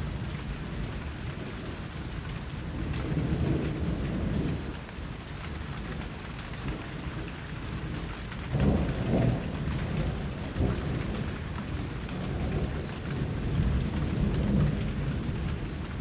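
Steady rain with low thunder rolling in three times, the loudest rumble about nine seconds in.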